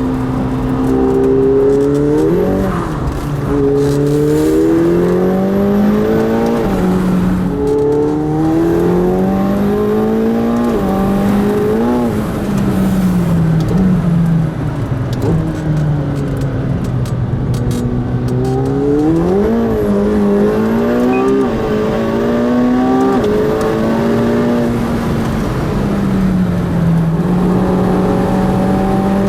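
McLaren 720S twin-turbo V8 heard from inside the car on track, pulling hard through the gears: the engine note climbs, drops sharply at each upshift and falls away under braking, over and over. The car is fighting for grip on a wet surface.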